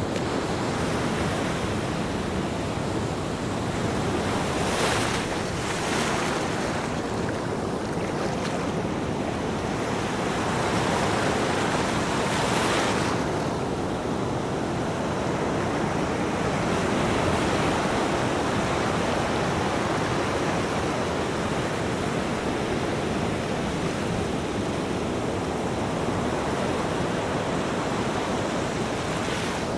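Ocean waves breaking and washing up on a beach: a continuous rushing surf, with louder breaking waves in the first half.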